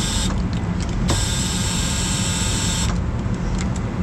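A high, even-pitched buzzing whine sounds twice, briefly at the start and again for about two seconds from a second in, over a steady low mechanical rumble.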